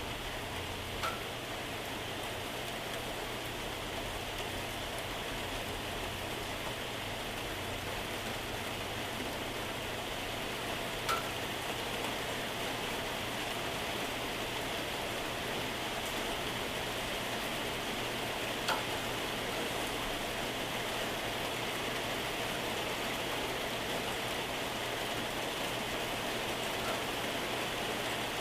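Moderate to heavy rain falling steadily, with three sharp single ticks standing out: about a second in, near the middle, and about two-thirds through.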